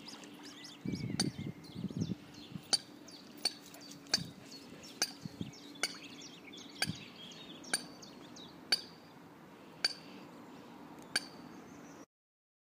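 A bird giving sharp, clinking call notes, one roughly every second, about a dozen in a row. There is a brief low rumble near the start.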